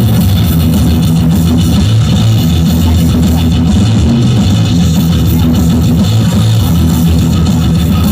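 Music with guitar and drums played at full volume through a miniature sound system's 15-inch speakers, loud with heavy bass.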